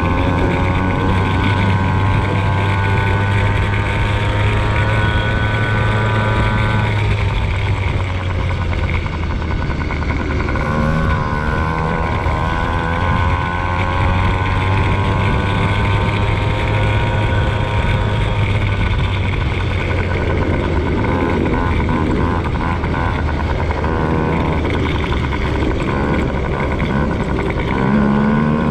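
Motocross bike engine running hard around the track, its pitch climbing and falling as the rider opens and closes the throttle, with a sudden drop about seven seconds in.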